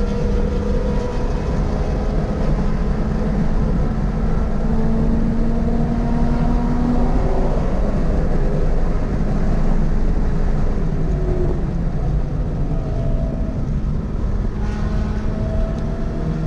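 Toyota GR86's 2.4-litre flat-four engine running hard on track, over a steady rush of road and wind noise. The engine note climbs slowly for the first several seconds, eases off about halfway through, and rises again near the end.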